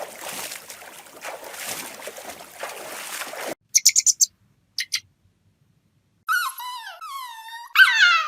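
Hissing noise for the first few seconds, then a quick run of high chirps, then several high whining cries that slide down in pitch, the loudest near the end, like a puppy whimpering.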